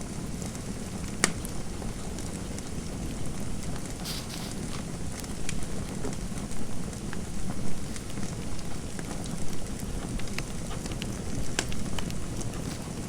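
Wood fire in a fireplace crackling: a steady low rumble with irregular sharp pops and snaps, one loud pop about a second in.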